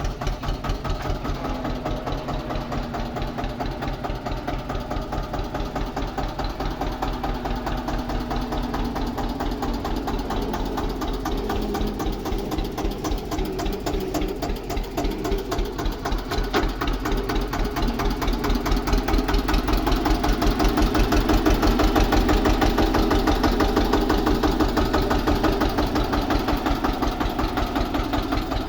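Eicher 242 tractor's diesel engine running with an even, rapid pulsing beat, getting louder for several seconds past the middle, then easing back slightly near the end.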